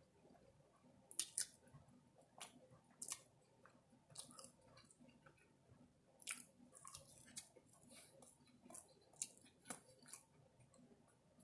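A person chewing food close to the microphone, with quiet, scattered mouth clicks and soft crunches.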